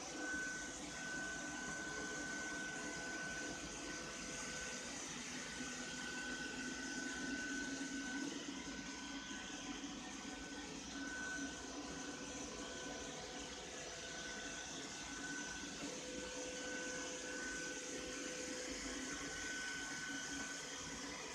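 Ropo Glass robot vacuum cleaner running steadily: a constant motor and brush hum with a thin high whine that comes and goes.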